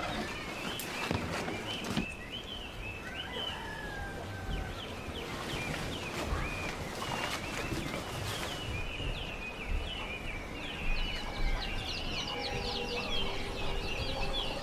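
Birds chirping: many short, high chirps scattered through, crowding together in the last few seconds, over a steady outdoor background.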